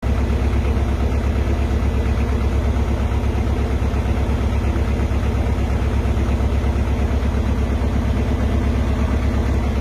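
Narrowboat's diesel engine running steadily, a deep low beat with a fast, even pulse.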